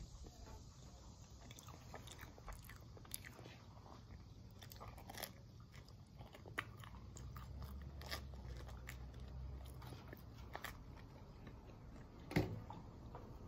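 A person chewing food close to the microphone: scattered small crunches and mouth clicks. One louder thump comes near the end.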